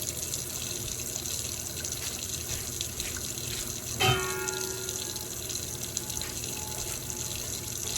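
Kitchen tap running steadily, letting the water run cold before it fills a pot. About four seconds in comes a single clank that rings briefly and fades.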